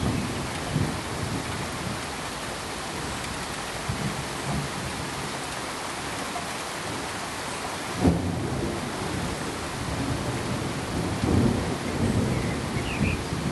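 Steady pink noise: an even, full-range hiss. Low rumbling swells rise and fade under it several times, with a sudden louder rumble about eight seconds in.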